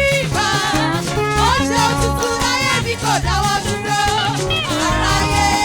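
Live Yoruba gospel praise music: a church band plays a steady groove with bass, drums and a shaker, while voices carry a sliding melody.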